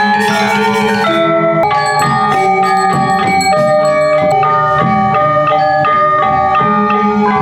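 Balinese gamelan playing: metallophones striking quick runs of ringing notes over a held lower tone.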